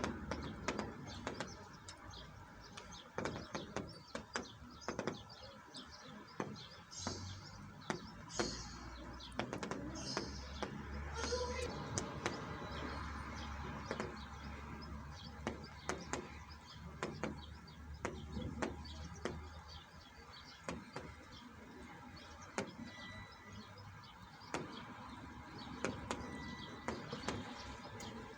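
Rain falling, with many sharp drips tapping close by, and birds chirping in short calls, most of them between about seven and eleven seconds in. A faint low hum runs underneath through the middle stretch.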